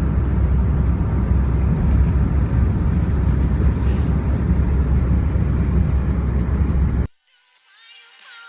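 Steady low rumble of a vehicle with a noisy hiss over it, like road and wind noise, cutting off abruptly about seven seconds in.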